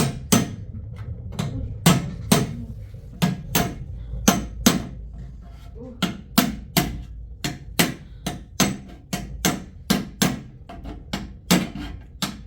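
Repeated hammer blows, about two to three strikes a second and often in quick pairs, sharp and evenly spaced, as something is nailed or knocked into place during repair work.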